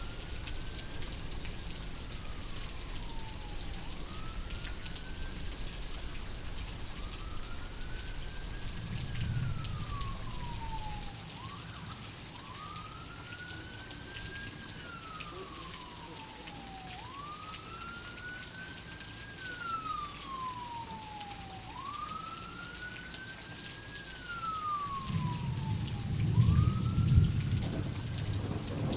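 Steady rain with a siren wailing, its pitch rising slowly and then falling, over and over about every five seconds. Thunder rumbles about a third of the way in, and louder near the end.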